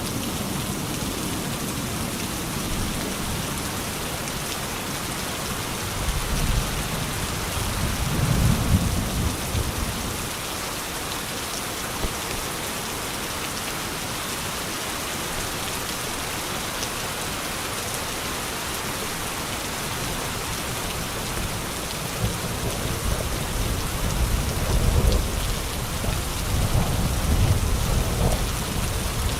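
Steady heavy rain falling, with low rolling thunder rumbles swelling about six to nine seconds in and again through the last seven seconds.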